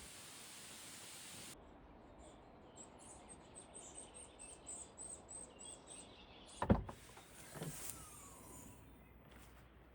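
A steady hiss that stops abruptly, then a bird giving a rapid run of high repeated chirps, about three a second, with a single sharp thump about two-thirds through and a fainter knock after it.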